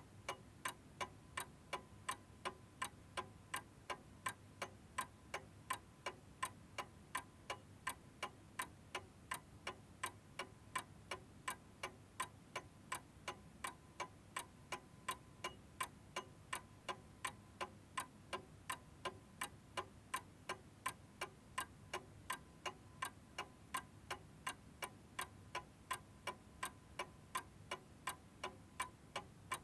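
Domestic clock ticking in a steady, even rhythm, a little more than two sharp ticks a second. No chime sounds.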